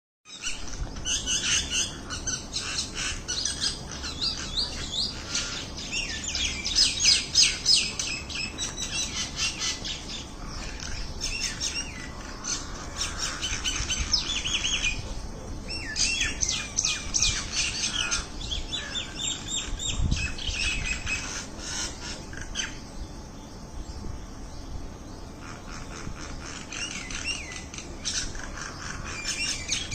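A flock of mynas chattering, with many calls overlapping continuously.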